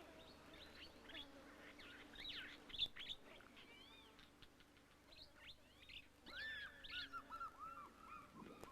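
Faint wild birdsong: scattered short chirps and whistles, with a quick series of repeated call notes starting about six seconds in.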